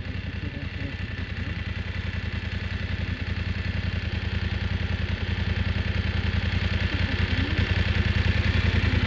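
Motorcycle engine running with a steady low pulse, growing gradually louder.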